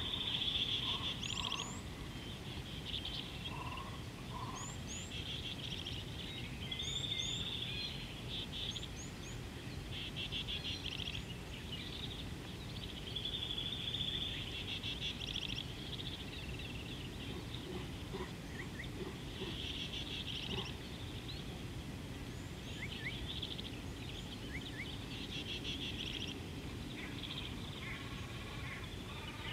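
Wild birds calling: repeated buzzy, rattling trills every second or two, mixed with short high chirps, over a steady low background rumble.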